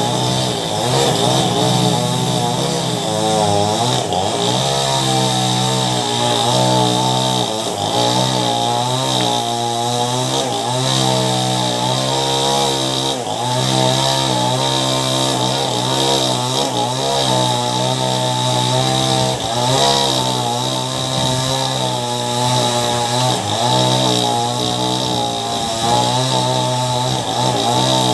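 Ryu chainsaw with a STIHL chain running under load while cutting through a large mango tree trunk, its engine note wavering up and down as it bogs and recovers in the cut.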